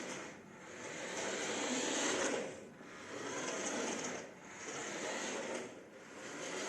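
Toy RC truck's small electric drive motor and plastic gearbox whirring in repeated runs of about a second and a half, dipping briefly between them as the throttle is pressed and let go.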